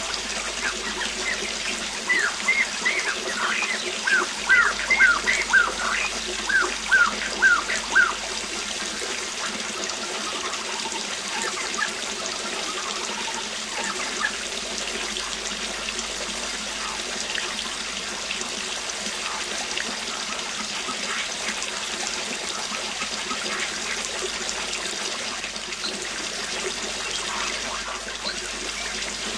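Steady rush of a waterfall, with a bird singing a quick series of short, repeated, down-slurred notes from about two to eight seconds in, and fainter bird notes after that.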